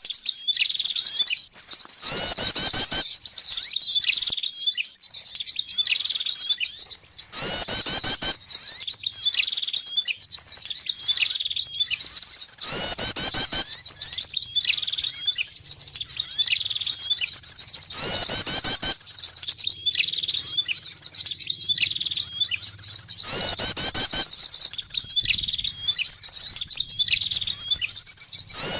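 Bird-lure recording of small songbirds such as prinias and spiderhunters chirping rapidly and without a break. A louder, harsher call recurs about every five seconds.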